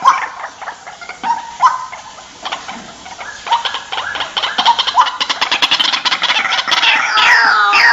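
White-breasted waterhen calling: harsh repeated croaks, a fast rattling run of pulses through the middle, then a string of notes that fall steeply in pitch near the end.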